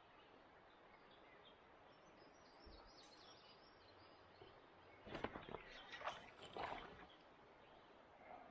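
Quiet river ambience with faint bird calls, broken by a short cluster of knocks and splashy clatter about five seconds in that lasts around two seconds.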